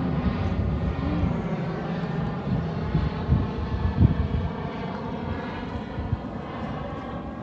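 A propeller aircraft's engine droning steadily, slowly fading as it moves away, with low wind rumble on the microphone.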